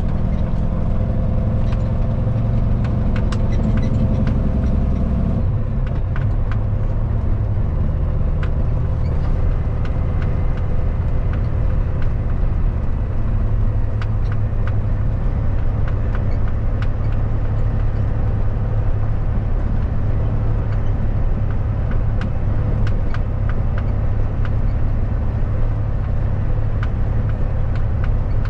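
Kenworth W900 semi truck heard from inside the cab while driving: a steady low diesel engine drone with road noise and scattered small rattles, the engine note dropping and settling about five seconds in.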